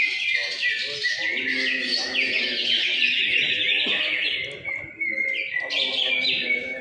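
Cucak ijo (green leafbirds) singing in a dense, rapid stream of high chirps and trills, several songs overlapping, with a brief lull about two-thirds of the way in.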